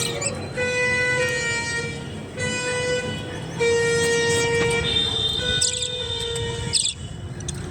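A horn sounding in a series of held blasts of about a second each, all on one pitch, with a few short bird chirps near the end.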